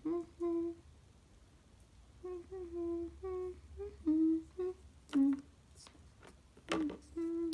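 A voice humming a slow tune in short held notes. A short knock is heard near the end.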